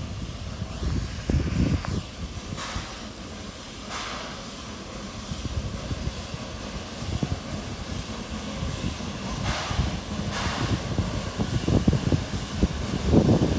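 Train running past: a steady low rumble with a few short hissing bursts, getting louder near the end, with wind buffeting the microphone.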